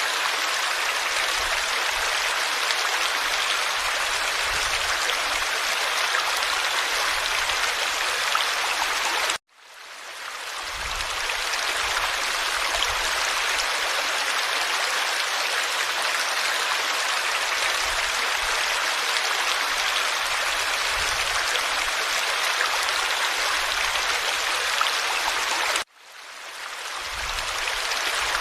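Forest stream flowing, a steady rushing babble of water over stones. The sound cuts out abruptly twice, about a third of the way in and near the end, and fades back up over a second or so each time.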